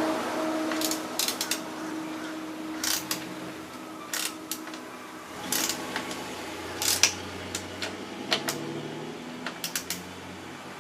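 Sporadic metal clicks and clinks of hand tools on bolts while a motorcycle rear fender is being fastened, coming singly and in quick clusters of two or three. A low hum fades away over the first few seconds.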